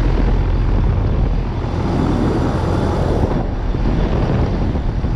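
2010 York Odyssey 7.5-ton heat pump outdoor unit running in cooling mode: the condenser fan's steady rush of air over the low hum of the compressor.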